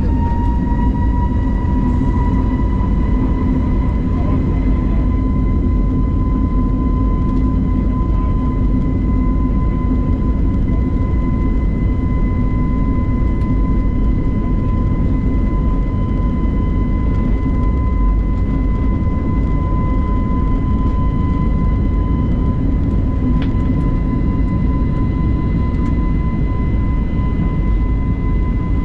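Airbus A320neo's CFM LEAP-1A engines heard from the cabin at takeoff thrust: a high fan whine rises in pitch just at the start, then holds steady over a heavy rumble.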